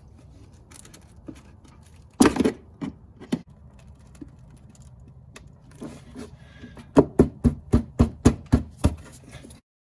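Hand tools working on the fender-well fasteners of a 2004 Chevrolet Cavalier. A few sharp knocks come about two seconds in, then near the end a regular run of about nine sharp clicks, roughly four a second.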